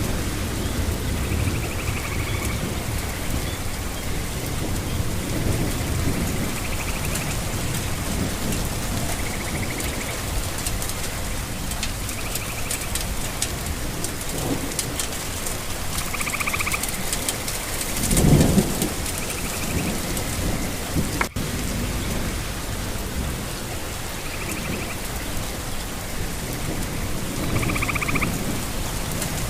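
Steady rain with low rolling thunder, swelling into a louder thunder rumble about 18 seconds in. Short high chirps recur every couple of seconds.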